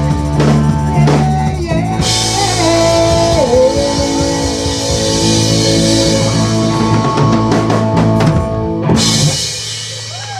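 Live rock band playing an instrumental passage: drum kit and cymbals with sustained guitar chords and a lead guitar bending notes. Near the end the drums and cymbals stop, and a quieter ringing chord is left.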